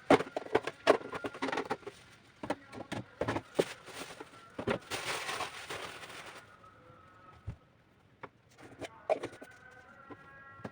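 Dishes and kitchenware knocking and clinking as they are handled, with a short rush of running tap water about five seconds in that cuts off suddenly.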